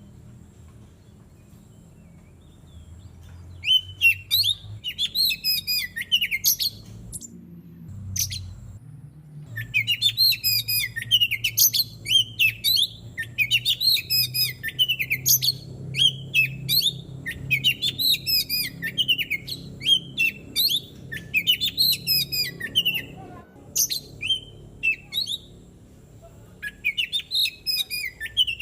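Oriental magpie-robin singing: fast runs of varied whistles and chirps in repeated phrases with short breaks between them, starting about three and a half seconds in.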